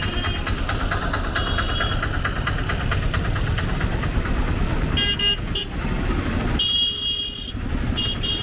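Busy street traffic with engines running, and vehicle horns honking: two short toots about five seconds in, then a longer blast of nearly a second and another short toot near the end.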